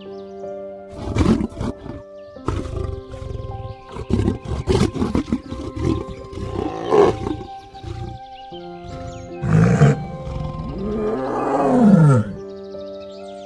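Repeated loud animal calls over background music with steady held notes, ending in one long call that rises and then falls in pitch.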